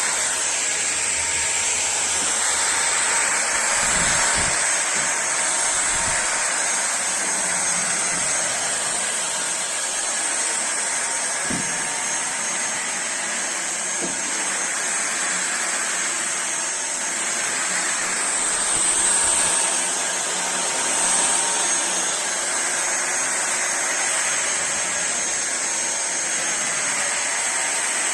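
Fieety cordless stick vacuum cleaner running steadily with a high-pitched whine, with a few faint low thumps along the way. It cuts off suddenly at the very end.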